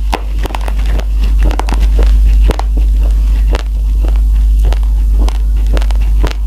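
Raw uncooked rice grains being crunched between the teeth: a close, dense run of sharp, irregular crisp cracks, over a steady low rumble.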